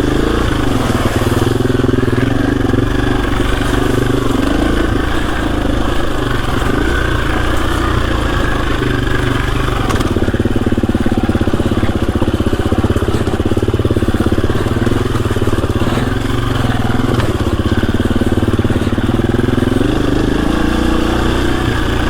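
KTM EXC-F 350 dirt bike's single-cylinder four-stroke engine running as the bike is ridden along a trail, its pitch shifting a little with the throttle.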